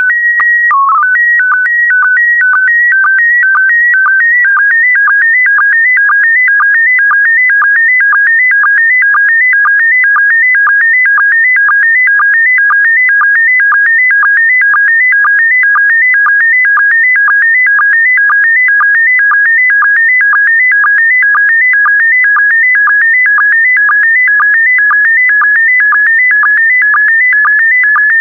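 Slow-scan television (SSTV) signal in PD120 mode: a short steady tone and a few stepped tones (the mode's header), then the image data, a fast warbling stream of tones between about 1.5 and 2 kHz broken by a sync pulse about twice a second as each pair of scan lines is sent.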